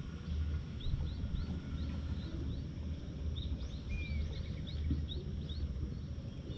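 Small birds chirping: runs of short high chirps, several a second, with one longer gliding note about four seconds in, over a low steady rumble.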